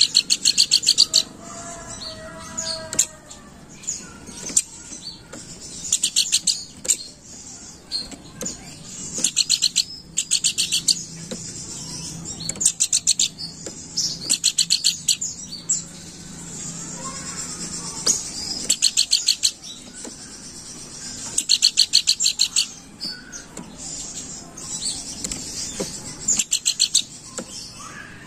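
Pelanduk bukit, a babbler, singing in fast chattering bursts of rapid high notes, each about a second long and repeated every few seconds, with a few softer lower whistled notes between.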